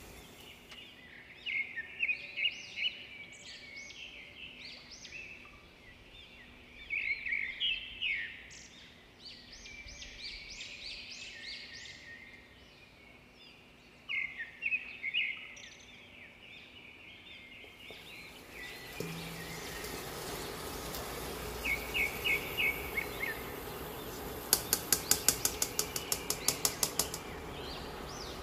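Small birds chirping in short, quick bursts of high notes over a low background hum. Near the end, a rapid run of sharp clicks, about five a second, sounds over louder background noise.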